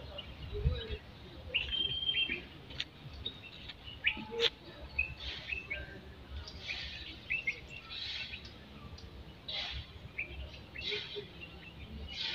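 Several birds chirping and calling, short scattered chirps and whistles, with low bumps underneath and a sharp click about four and a half seconds in.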